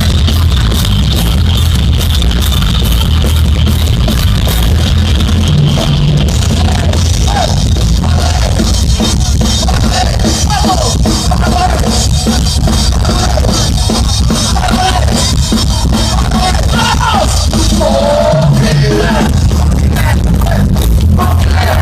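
Heavy metal band playing live and loud, with drums and a steady, dense wall of amplified instruments.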